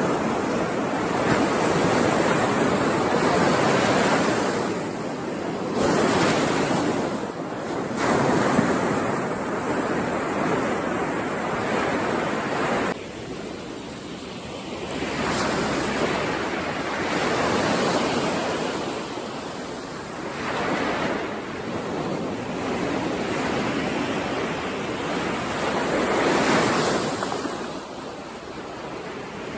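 Ocean waves breaking on a shore, surging and falling back in swells every few seconds.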